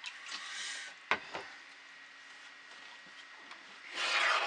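Handling knocks: two sharp knocks about a second in, with short stretches of hissing, rustling noise at the start and near the end.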